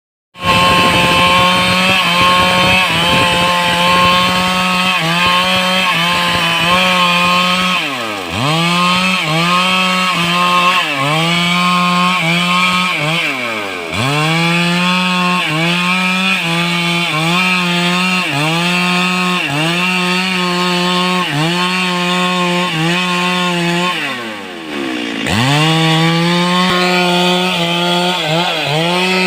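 Stihl two-stroke chainsaw at full throttle, cutting wood, its engine note sagging slightly under load about once a second. Three times, at about 8, 14 and 25 seconds in, the revs fall right away and climb straight back up.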